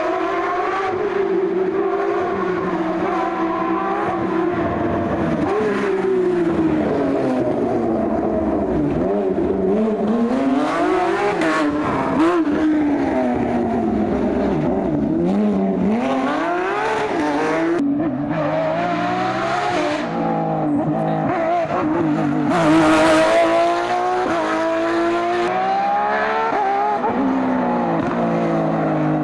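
Porsche engine revving up and down again and again as the car is driven hard through the gears, with a louder, harsher burst about three-quarters of the way through.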